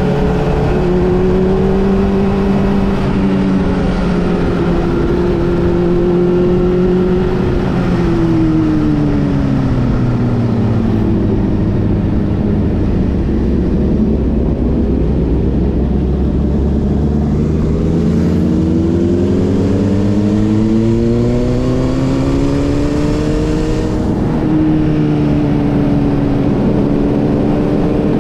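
Motorcycle engine and exhaust running continuously. The pitch holds steady for several seconds, falls slowly to a low about halfway through, climbs gradually back up, then drops a little and settles near the end.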